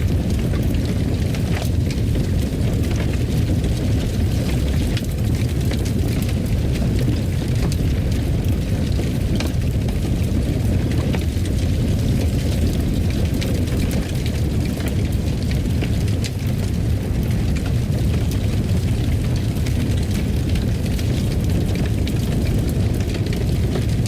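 Fire burning in a fireplace: a steady low rumble of flames with frequent small, sharp crackles and pops scattered through it.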